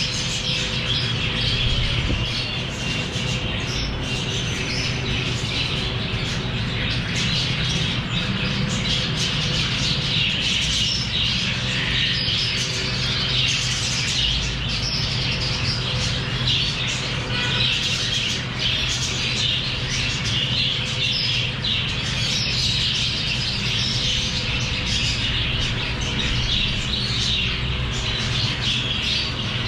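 Many small pet parrots chattering and squawking without pause, with a steady low hum underneath.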